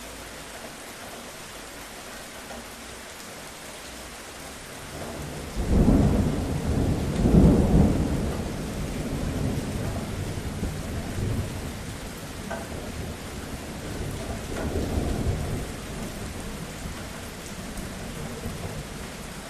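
Steady rain with a thunderclap about five seconds in that rumbles loudly twice and then fades away over several seconds, with a weaker roll of thunder near the end.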